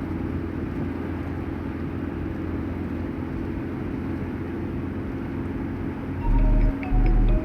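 A steady low rumbling noise. About six seconds in, music with deep bass notes starts over it.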